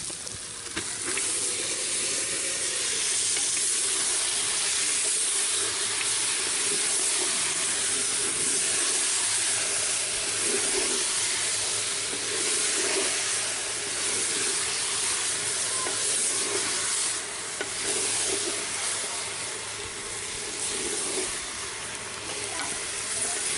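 Raw chicken pieces frying in hot oil with onions and whole spices in a clay handi, sizzling steadily while stirred with a wooden spatula. The sizzle rises just after the start as the chicken goes in.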